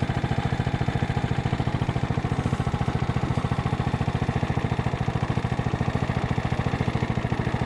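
Craftsman riding lawn mower's engine running steadily with an even, fast pulse and no change in speed.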